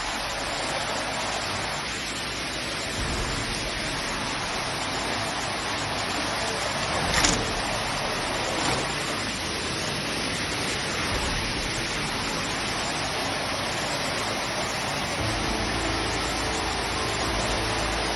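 Steady rush of fast-flowing floodwater, an even, unbroken roar of water. A brief sharp knock stands out about seven seconds in, and a fainter one follows a second or so later.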